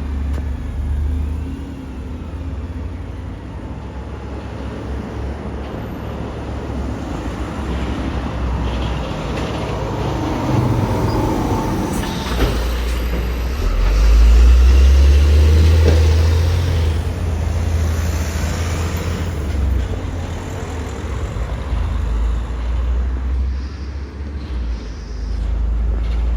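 Buses and other road traffic passing in the street, a heavy low engine rumble that swells to its loudest a little past halfway through.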